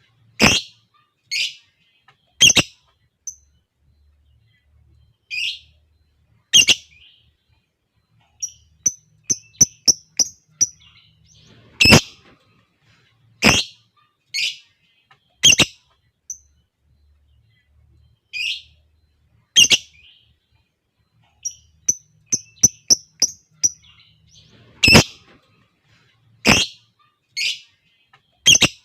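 Lovebirds calling: sharp, shrill single calls every second or two, with two quick runs of short, high chirps.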